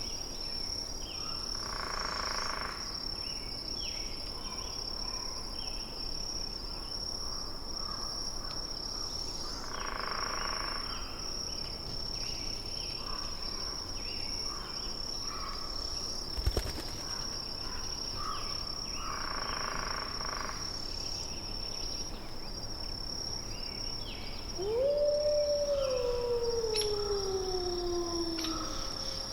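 Forest ambience: a steady high-pitched drone with scattered short chirps and a soft hazy swell every eight or nine seconds. Near the end comes a long howl, the loudest sound, which rises briefly and then falls steadily in pitch over about three seconds.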